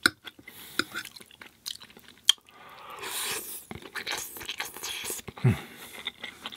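Close-miked eating sounds of a person chewing a mouthful of pasta: wet chewing and a few sharp mouth clicks, a slurp of a noodle about three seconds in, and a short low 'mm' near the end.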